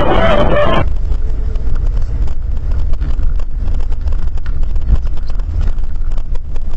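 Steady low rumble of a car driving, as picked up by a dashcam microphone inside the cabin, with scattered faint clicks. A louder, brighter sound from a different recording cuts off abruptly just under a second in.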